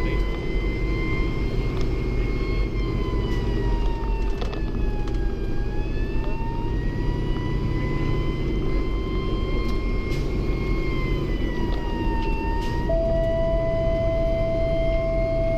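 Fire engine siren slowly wailing up and down, heard from inside the cab over the steady drone of the truck's diesel engine. About 13 seconds in, a steady single-pitch tone starts and holds.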